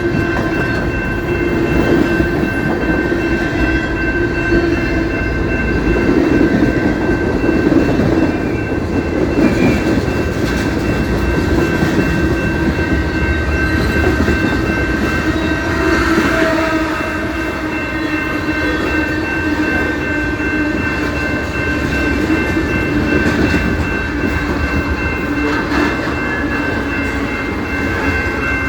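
Canadian Pacific freight train rolling past, a continuous rumble of the cars with a steady high-pitched whine over it.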